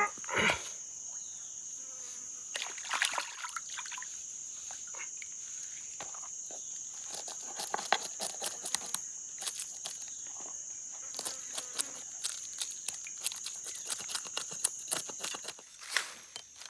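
Steady, high-pitched drone of insects that cuts off near the end, with irregular clicks and rustles over it.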